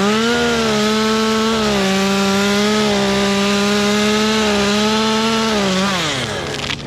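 Two-stroke chainsaw revved to full throttle and held there, cutting through a tree section, its pitch sagging slightly under load. It drops back toward idle about six seconds in.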